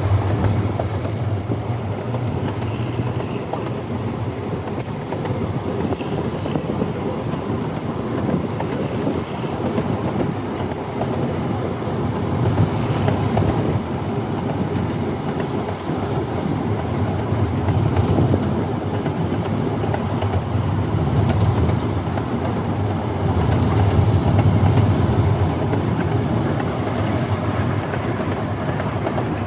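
Amusement-park ride-on train running along its track, heard from aboard: a steady low rumble of the wheels and cars.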